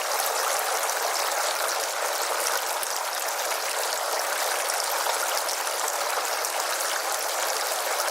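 Water running and splashing steadily down the tiers of a four-tier resin garden fountain, pumped by its submersible electric pump.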